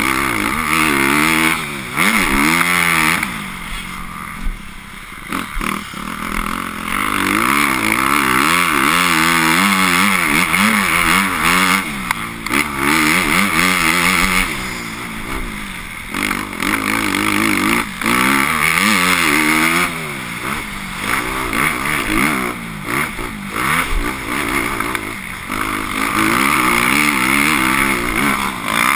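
Motocross bike engine revving up and down over and over as it is ridden hard, its pitch rising and falling every second or two, with a steady rushing noise over it.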